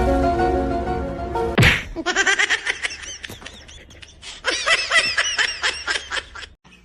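Background music for about a second and a half, cut off by a sharp hit, then a run of quick, high laughing calls in two spells.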